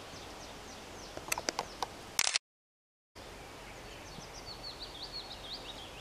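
Small songbird singing over steady outdoor background hiss: a quick run of short, high, downward-sweeping chirps in the second half. A few sharp clicks come just before the sound cuts out for about a second near the middle.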